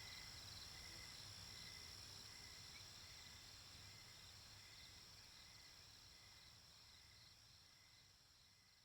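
Night-time nature ambience of crickets chirping, faint: a steady high trill with a chirp repeating at an even pace, slowly fading out toward the end.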